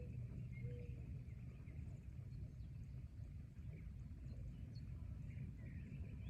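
Forest ambience: a steady low rumble with faint, short bird calls and high chirps scattered through it.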